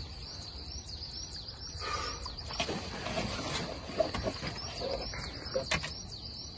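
A small bird chirping over and over, short high chirps about two to three a second. A few knocks and rustles from someone moving about in the cramped pump house, the loudest about four seconds in.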